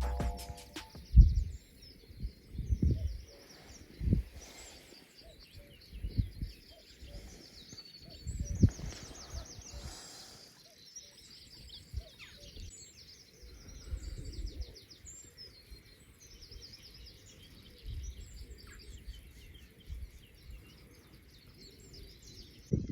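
Songbirds singing outdoors, with rapid chirps and trills throughout, broken by a few dull low thumps, the loudest about a second in and again near the middle.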